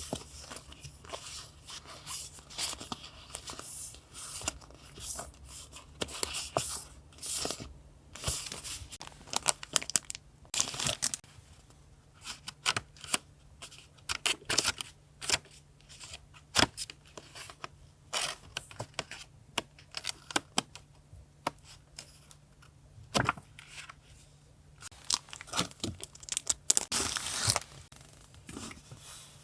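Paper being handled close up: repeated tearing and crinkling, with many short sharp clicks and taps throughout.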